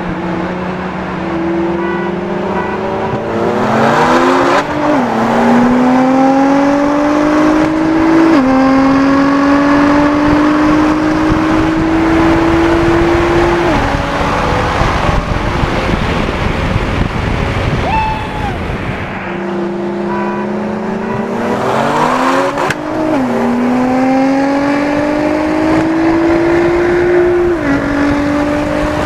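Twin-turbo Nissan 370Z's 3.7-litre V6 accelerating at full throttle, heard from inside the car. The pitch climbs and drops at three upshifts, eases off briefly, then climbs again through two more upshifts.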